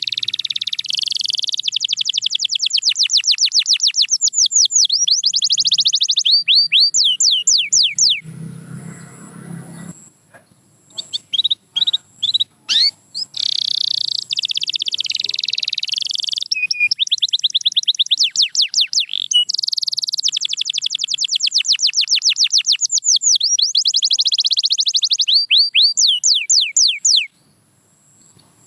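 Canary singing: long phrases of fast trills made of rapidly repeated notes, some slowing into separate sweeping whistled notes. The song pauses for a few seconds partway through with only scattered short chirps, starts again, and stops suddenly shortly before the end.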